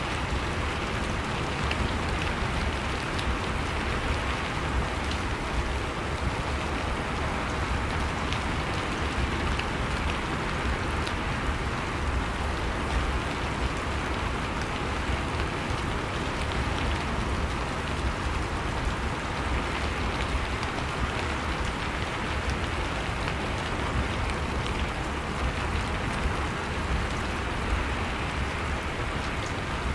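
Steady rain falling, a constant even hiss with scattered drops ticking, and no distinct thunderclap.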